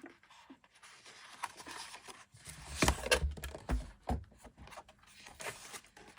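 Sketchbook pages of thick paper being turned and handled: rustling and scraping with scattered sharp clicks. There are a few dull thumps of handling about halfway through.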